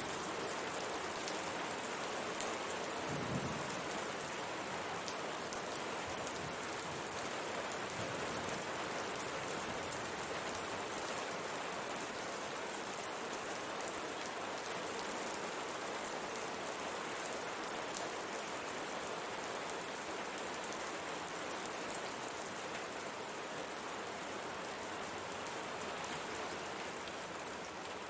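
Steady rain pattering on a window pane, a dense even hiss of drops with a soft low thump about three seconds in.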